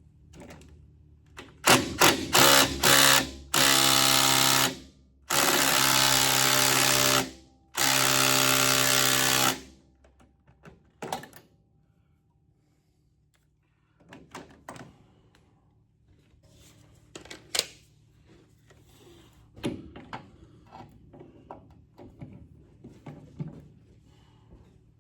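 Hand-held power tool backing out bolts: a few short trigger pulls, then three runs of about two seconds each. Afterwards come scattered light clinks and knocks of metal tools and parts.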